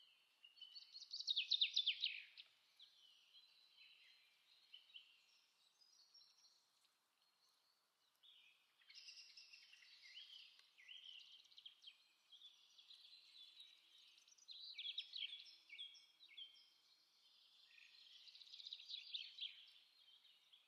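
Faint birdsong: many quick high chirps and short falling whistles, one burst about a second in, then a long run of chirping from about eight seconds on.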